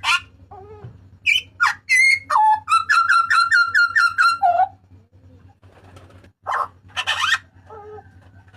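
Papuan butcherbird (jagal papua) calling loudly: sharp calls and whistled notes, then a fast run of about ten repeated notes ending on a lower note, and after a short pause more loud harsh calls.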